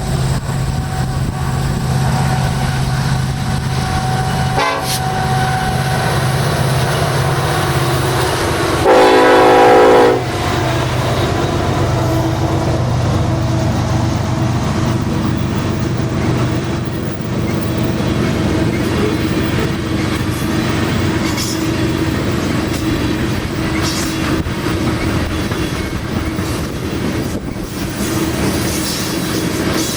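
A diesel-led coal train passing: locomotive engines running with a steady low rumble, then a single horn blast of about a second and a half about nine seconds in. The train keeps rolling by with wheel noise and clatter on the rails.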